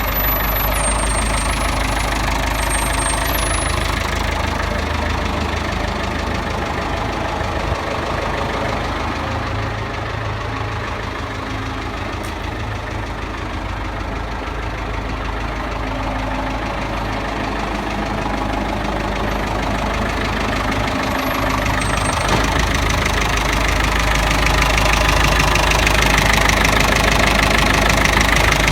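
Tractor engine running steadily, growing somewhat louder in the last few seconds.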